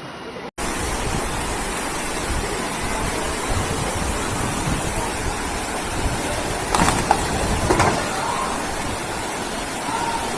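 Floodwater rushing: a steady, loud noise of moving water that starts abruptly about half a second in, with a couple of brief louder splashes or knocks about two-thirds of the way through.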